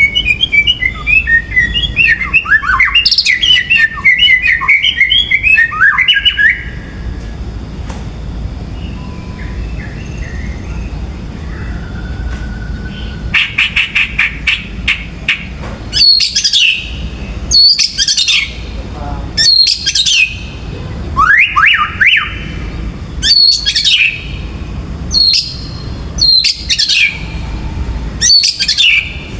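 White-rumped shama (murai batu) singing: a fast, varied warbling phrase for the first six seconds or so, then a quick run of ticks, then short sweeping whistled notes repeated about every second and a half.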